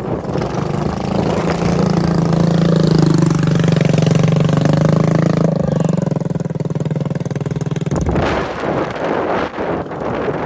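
A motorcycle engine running close by, loudest midway, its pitch shifting a little, then cutting off suddenly about eight seconds in, leaving wind buffeting the microphone.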